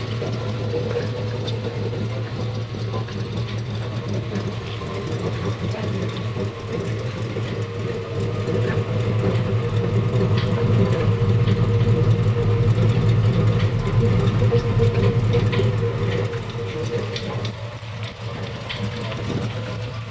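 A car engine running with a steady low hum, growing louder in the middle and then easing off.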